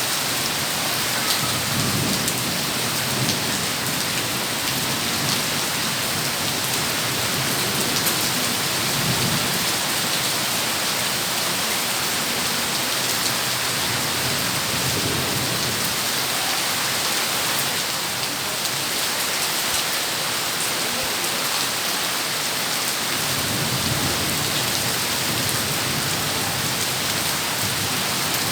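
Heavy rain pouring steadily, with low rumbles of thunder swelling up several times.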